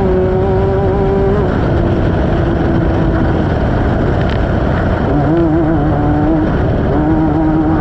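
Off-road race car's engine heard from on board at speed, held at high revs, with a constant rough din beneath it. The revs drop about a second and a half in, then pick back up and waver from about five seconds in, as the driver lifts and gets back on the throttle.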